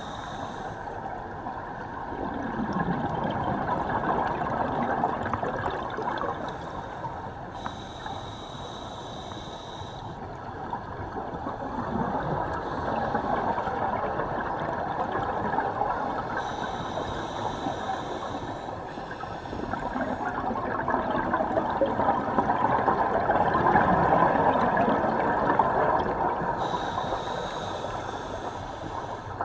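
Scuba diver breathing underwater through a regulator: three breaths, each a short high hiss of inhaling followed by a longer bubbling gurgle of exhaled air, about every nine seconds.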